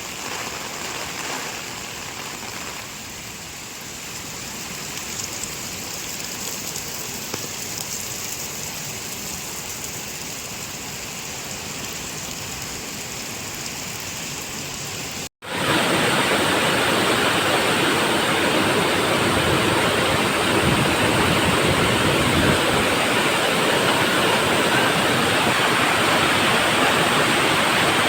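Heavy rain falling, a steady hiss of water. About halfway through, it cuts abruptly to a louder, fuller rush.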